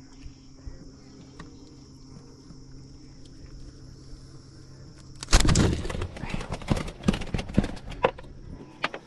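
A freshly landed flounder flopping and slapping against the boat deck: a burst of irregular knocks and thumps about five seconds in, lasting close to three seconds, over a faint steady background hum.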